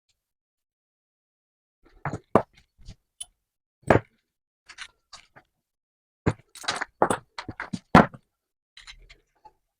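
A run of irregular knocks and clanks of metal workshop parts being handled and set down, about a dozen over several seconds after a quiet start. The loudest strikes come about two, four, six and eight seconds in.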